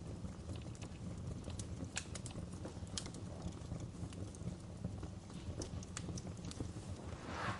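Wood fire burning in a fireplace, with a steady low rumble and scattered sharp crackles and pops of burning logs; a short hiss swells up near the end.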